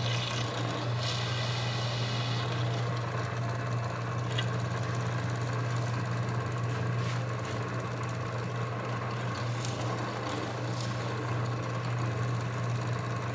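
Drill press motor running steadily with a low, even hum.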